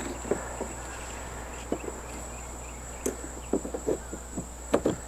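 Light knocks and clicks of stand parts being handled and fitted together, with a cluster of them near the end, over a steady high-pitched whine.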